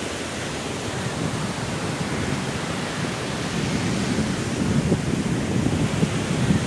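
Strong wind and sea surf making a steady rushing noise, with low rumbling gusts building toward the end.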